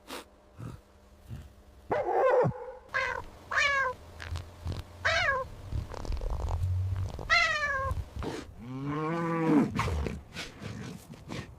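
A domestic cat meowing: four short calls that fall in pitch, with a low purr underneath in the middle, then a longer, lower drawn-out call near the end. A short noisy burst comes about two seconds in.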